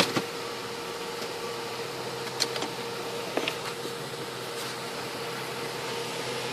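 Steady hum of an idling car with a faint constant tone, and a few light clicks and taps scattered through, the sharpest right at the start.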